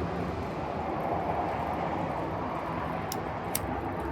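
Steady low rumbling background noise, with two short sharp clicks about three seconds in.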